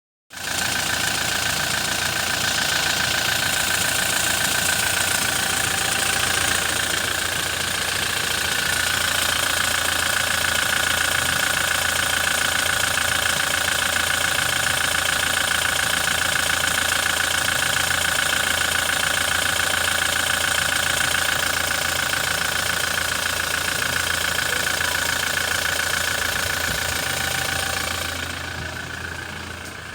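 Toyota Fortuner's 2.8-litre four-cylinder turbodiesel engine idling steadily, then getting quieter near the end.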